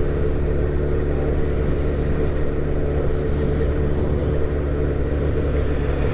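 Car engine and road noise heard from inside the cabin, a steady low hum at constant low cruising speed.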